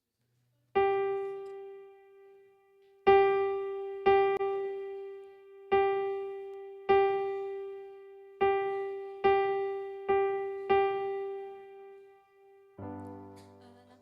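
Piano keyboard striking the same single note nine times at an uneven pace, each note dying away, then sounding a fuller chord near the end.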